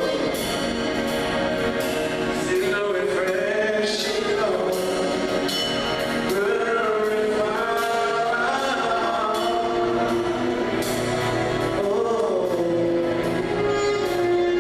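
Gospel choir singing held, sustained notes over instrumental accompaniment, with cymbal strokes.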